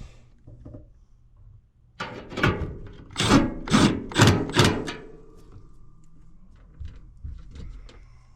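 Parts being handled inside an air handler cabinet: a cluster of about six knocks and clunks with some ringing around the middle, then a few faint ticks and rubs.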